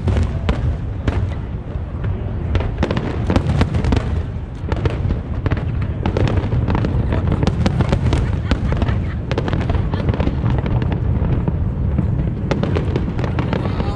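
Aerial fireworks going off in rapid succession: a dense run of sharp bangs and crackles over a constant low rumble of booms.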